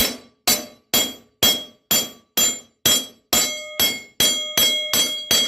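Hammer striking metal in steady blows, about two a second, the later blows leaving a clear metallic ring. The blows are meant to drive the go-kart's drive sprocket along the engine shaft, and it is stuck.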